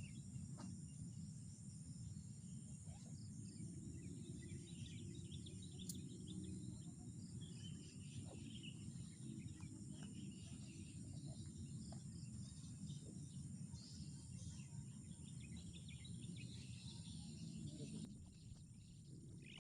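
Forest ambience: insects keep up a steady high buzz while birds give scattered short chirps, over a low steady rumble.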